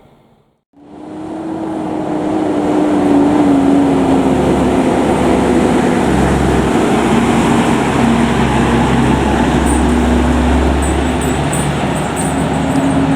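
A heavy truck engine running loud, most likely a fire truck driving past. It starts about a second in, and its engine note slowly slides lower, then rises again near the end.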